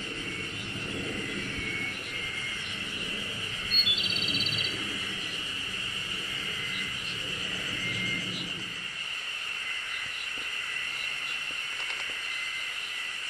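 Wild birds calling over a steady high drone. A short, loud trilled call comes about four seconds in, with soft single notes scattered throughout. A low rumble underneath stops about nine seconds in.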